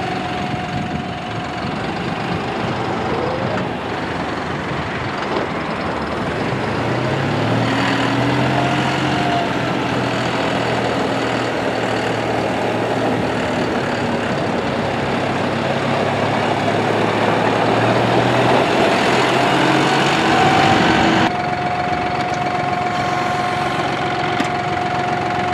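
A John Deere 5065E tractor's three-cylinder turbo diesel engine running steadily. A deeper drone joins about seven seconds in, then the sound changes abruptly about three-quarters of the way through.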